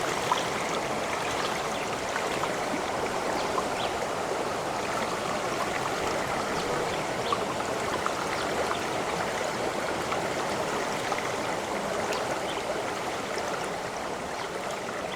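Flowing water, a steady stream-like babble with faint small splashes, beginning to fade out near the end.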